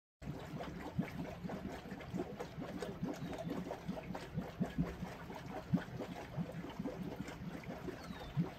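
Jeep Wrangler JKU engine idling steadily while the vehicle sits stuck in a muddy creek, with many small irregular splashes and knocks from the water and mud.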